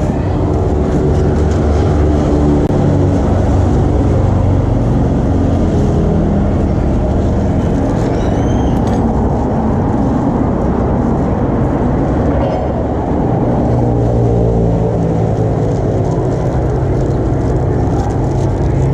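Steady motor-traffic noise, engines running with a continuous low hum.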